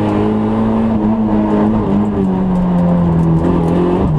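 Citroën Saxo N2 rally car's engine pulling hard at high, nearly steady revs, heard from inside the car, the pitch easing slightly about halfway and dipping briefly at the very end.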